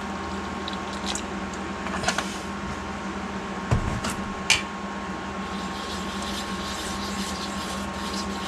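Steady mechanical hum of a kitchen appliance, with a few light knocks and clinks from handling the batter bowl.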